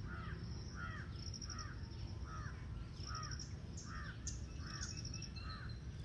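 A bird calling over and over at an even pace, short arched calls about one every two-thirds of a second, with faint high insect chirping behind it.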